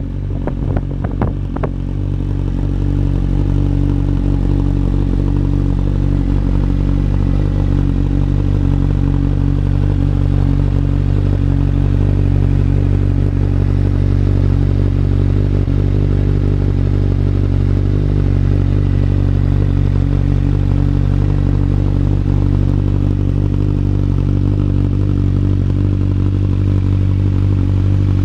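Honda CB1000 motorcycle's inline-four engine and exhaust running at a steady, unchanging engine speed, with a few sharp clicks in the first couple of seconds.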